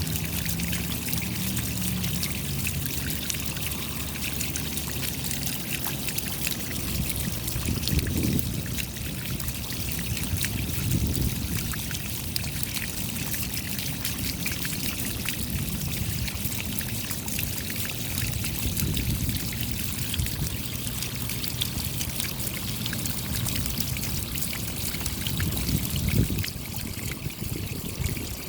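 Steady rain with water trickling and running: a dense patter of drops over a continuous wash, with a few brief low surges, the strongest near the end.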